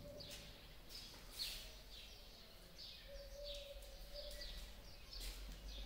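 Faint bird chirping: a string of short, high chirps that fall in pitch, roughly one every half second.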